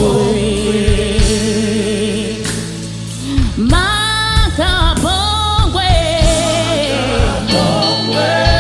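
Live gospel worship music from a church choir and band: sung vocals with vibrato over steady bass, with a gliding vocal run about four seconds in.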